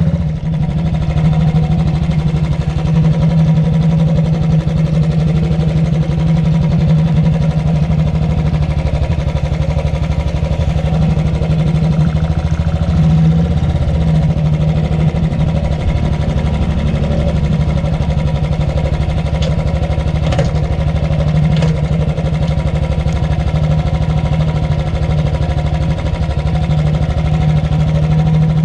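Royal Enfield Thunderbird's single-cylinder engine running with a steady, low thump.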